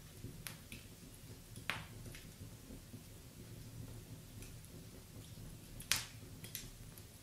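Wood fire crackling in a fireplace: scattered small crackles, with two sharp pops, one just under two seconds in and the loudest about six seconds in.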